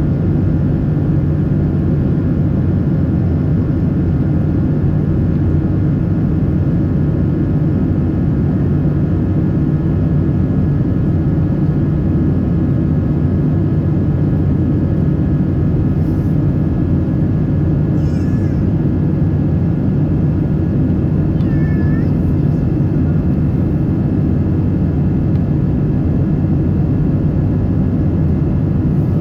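Steady engine and airflow noise inside the cabin of a Boeing 777-300 in flight: a loud, even rumble with a faint hum of steady tones. Two brief faint high squeaks come through about 18 and 22 seconds in.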